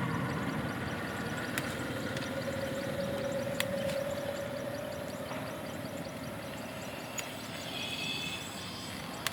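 A vehicle engine running steadily with a low rumble. Its hum slowly rises in pitch a few seconds in, then holds.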